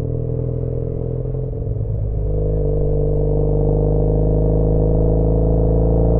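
2013 Triumph Bonneville T100's 865 cc parallel-twin engine running through an aftermarket British Customs Sleeper Pro exhaust. The note wavers about a second in, then climbs steadily in pitch and gets louder as the bike accelerates.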